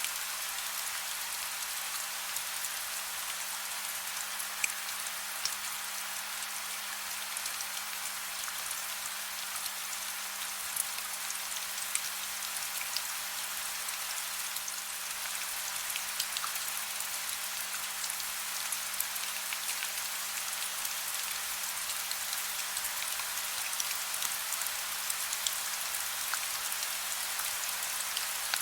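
Steady soft rain falling, an even hiss with scattered individual drops ticking sharply through it. A faint steady low hum sits underneath.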